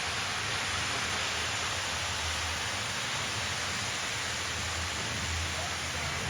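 Lionel O-gauge model trains running on the layout: a steady, even hiss of wheels rolling on three-rail track with a low hum underneath.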